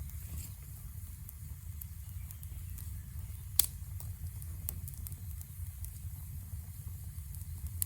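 Small campfire crackling, with scattered sharp pops (the loudest about three and a half seconds in) over a steady low rumble.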